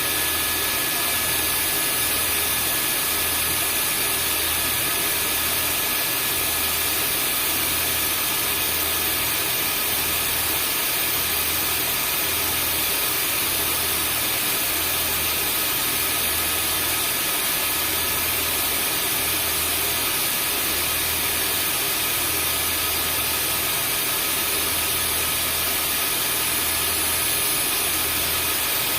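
Vacuum cleaner running continuously: a steady whirring hiss with a few fixed high tones and a low hum that swells and fades about once a second.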